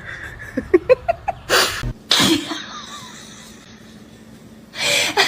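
Sneezes: two sharp ones in quick succession about one and a half to two seconds in, and another near the end, after a quick run of short, rising squeaks early on.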